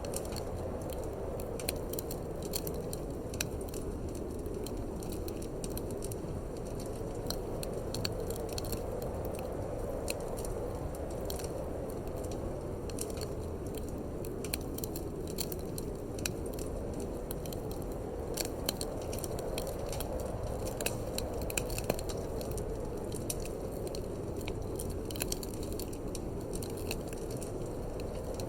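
Wood fire burning in a fireplace, crackling and popping in frequent, irregular small clicks, over a steady low rush of wind that swells and eases slowly.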